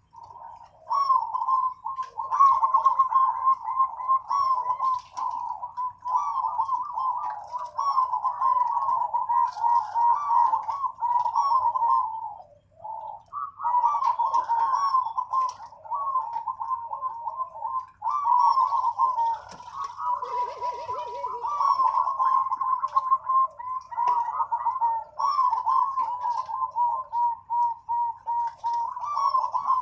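Zebra doves (perkutut) cooing in long runs of quick, rippling repeated notes, with a brief break about twelve seconds in.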